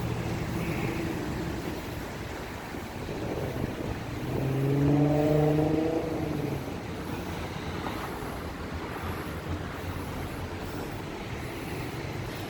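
Street traffic, with a passing car's engine note rising and growing loudest about five seconds in, then fading back into the steady road noise.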